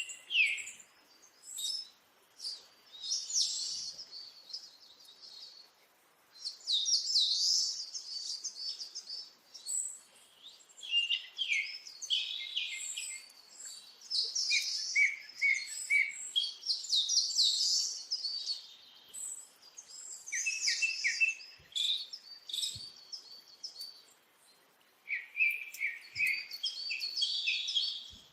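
Songbirds singing: phrase after phrase of quick, high chirps and trills with short pauses between them.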